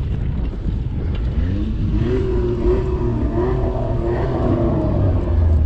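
A car engine revving: its pitch climbs and then wavers up and down for about three seconds in the middle, over a steady low rumble of wind on the microphone.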